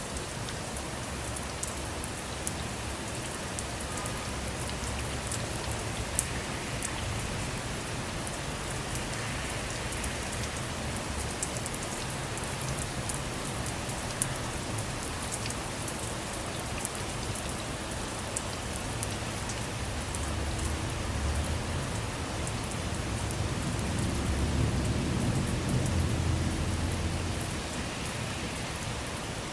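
Steady rain falling on a car's roof and windows, heard from inside the car, with scattered sharp drop ticks. A low rumble of distant thunder swells about two-thirds of the way in and fades near the end.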